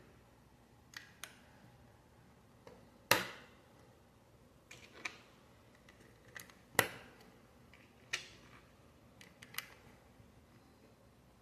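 Plastic Lego bricks being handled, pressed together and set down: a string of sharp irregular clicks and knocks, with two louder ones about three and seven seconds in.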